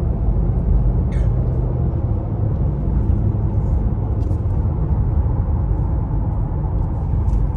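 2016 Acura MDX's 3.5-litre V6 running steadily at an even, unchanging pitch, with the sound weighted low. It runs smoothly after a fresh tune-up with new spark plugs and cleaned fuel injectors.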